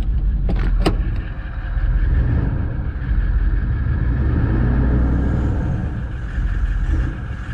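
Toyota Landcruiser 76-series wagon's diesel engine being revved a few times from idle, the engine note swelling and dropping back.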